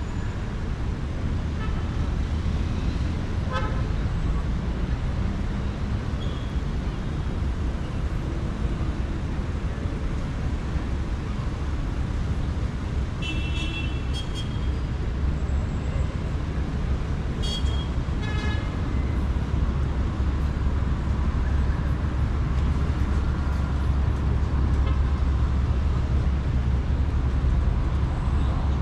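City street traffic: a steady low rumble of engines and tyres, with a few brief horn toots, the clearest about halfway through and again a few seconds later.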